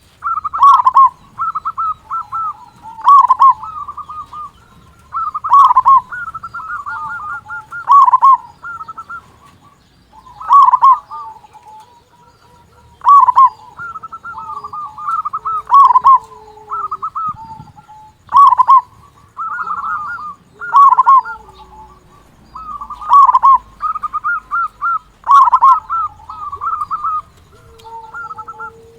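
Local zebra dove (perkutut) singing its cooing song loudly. Each phrase opens with a loud note followed by a quick run of trilled notes, and the phrases repeat about every two and a half seconds.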